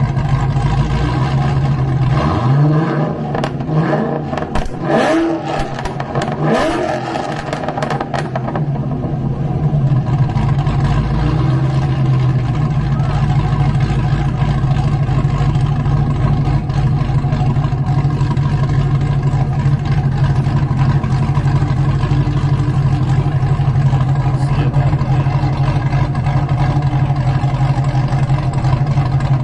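Cadillac V-series car's engine and exhaust revved about three times in quick succession in the first few seconds, each rev a rising pitch, then settling into a steady idle.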